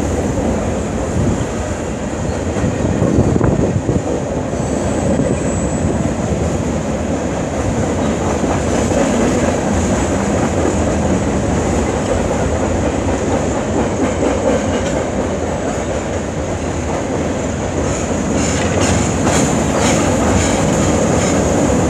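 Freight train of tank cars rolling past: a continuous rumble of steel wheels on rail with a steady high-pitched wheel squeal over it, and a run of clacks near the end.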